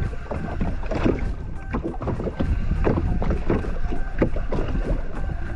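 Water slapping and sloshing against a jet ski's hull in an ocean swell, in irregular splashes over a constant low wind rumble on the microphone.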